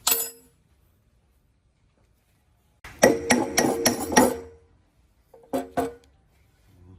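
Metal parts being struck, with clear ringing clinks: one strike, then a quick run of about six, then two more.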